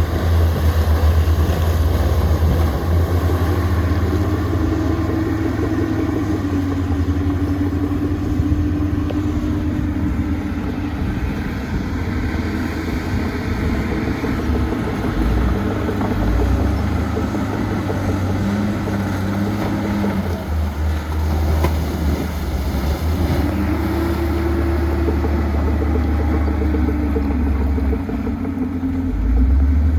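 Heavy diesel engine of earthmoving equipment running steadily under load, its pitch rising and falling a little twice.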